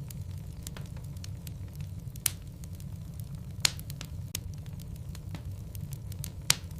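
Wood logs burning in a fireplace: a steady low rumble of flames with light crackling and three loud sharp pops, about two, three and a half and six and a half seconds in.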